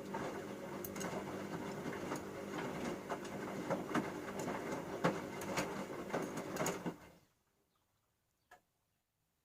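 Bauknecht Super Eco 6413 washing machine turning its drum, with a motor hum and laundry tumbling with irregular knocks and clicks, for about seven seconds until the drum stops.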